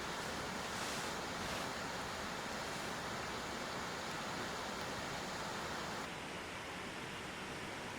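Steady rain falling, an even hiss with no separate drops standing out. About six seconds in it gets slightly quieter and duller.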